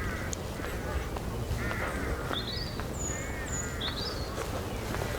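Crow-family birds cawing in repeated short harsh calls, several in quick succession, with a smaller bird's thin high chirps in the middle.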